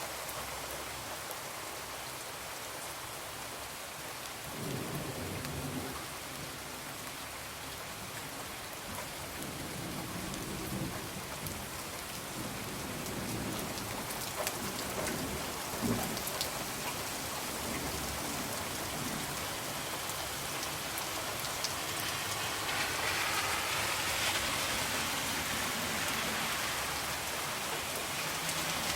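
Steady rain falling on a window, with a few low rumbles of thunder and occasional sharp crackles from a wood fire.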